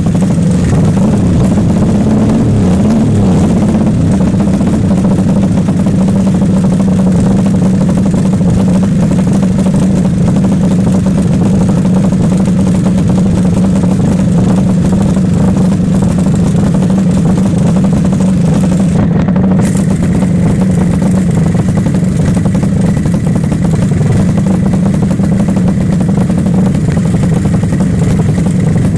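Motorcycle engine, a Yamaha Jupiter single bored up to 150 cc in a Honda C70 frame, running steadily at a fairly constant speed.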